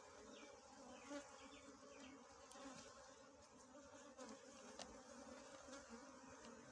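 Faint, steady buzzing of a cluster of small honeybees around their nest, a low drone with a few short high chirps and light clicks over it.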